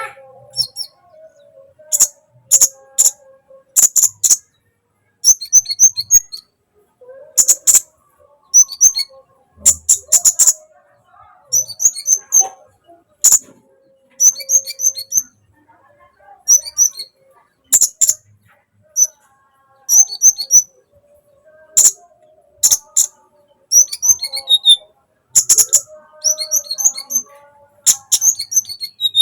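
A sunbird singing: sharp high-pitched chirps and quick twittering trills in short bursts, one after another every second or so.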